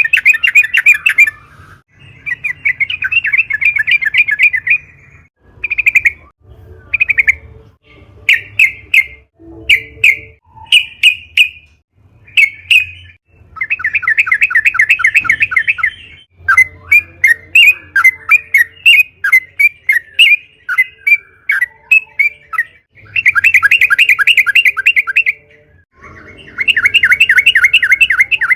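Yellow-vented bulbul singing: long, rapid chattering rolls lasting a few seconds each, alternating with runs of short, separate bubbly notes.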